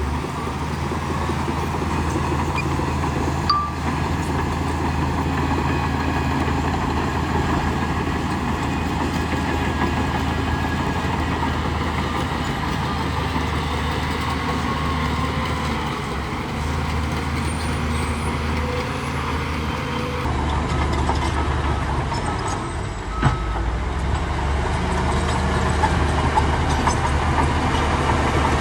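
Diesel engine of heavy earthmoving machinery running steadily with a low drone. Two short knocks stand out, one a few seconds in and one past the twenty-second mark.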